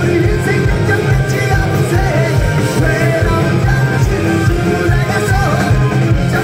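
Amplified punk rock played live by a full band: a fast, steady drum beat under bass and electric guitars.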